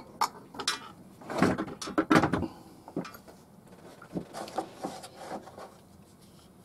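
Handling clatter of a removed chainsaw chain and bar: several short knocks and rattles, loudest about one and a half to two and a half seconds in, then a few faint clicks.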